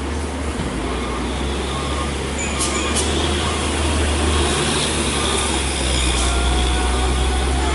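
Road traffic with a heavy vehicle's engine running close by, a steady low rumble under road noise.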